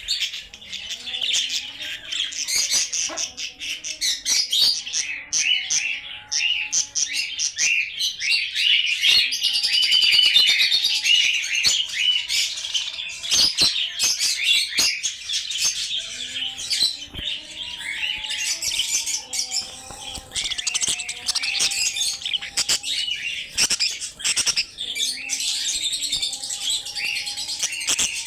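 A flock of caged budgerigars chattering and warbling nonstop, many birds at once, with scattered sharp clicks among them.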